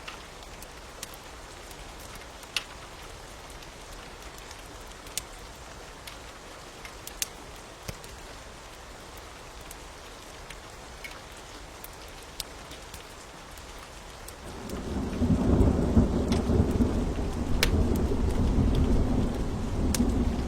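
Steady rain with scattered sharp pops of a crackling fire. About 14 seconds in, a deep roll of thunder swells up and rumbles on, the loudest sound.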